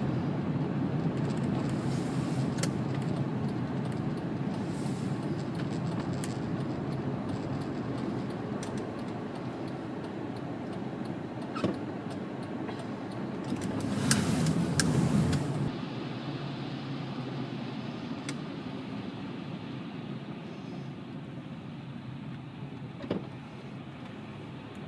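Road and engine noise heard from inside a moving 2005 Honda Pilot: a steady low rumble that slowly eases, with scattered light clicks and a louder, rougher stretch about fourteen seconds in.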